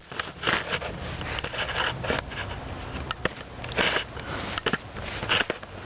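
Quatra 52cc two-stroke gas model-aircraft engine being turned over by hand, a string of short whooshing puffs at irregular intervals of about a second, without catching.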